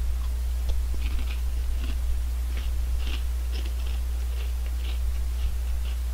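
Someone chewing a crunchy Honey Tong Tong potato snack close to the microphone: a run of short, dry crunches, thickest in the first half. A steady low hum runs underneath.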